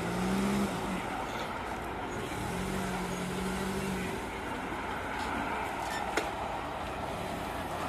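P-51D Mustang's Packard Merlin V-12 aero engine running during an aerobatic display: a steady distant drone. A low humming engine note swells in twice, ending about a second in and again about four seconds in. There is a single sharp click about six seconds in.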